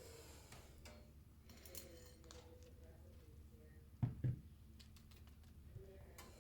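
Faint clicks and small taps of things being handled, with two low knocks close together about four seconds in.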